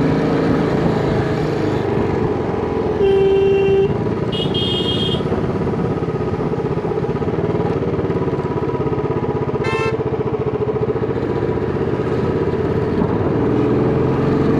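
Royal Enfield Bullet 350 single-cylinder engine running steadily under the rider. A vehicle horn honks about three seconds in, the loudest sound, followed by a higher-pitched horn beep a second later and a short high beep near ten seconds.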